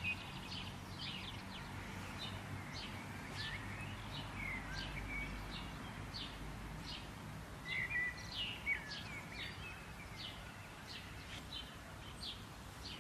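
Songbirds chirping over a steady outdoor hiss: many quick, high chirps throughout, with a few short whistled notes, loudest around eight seconds in.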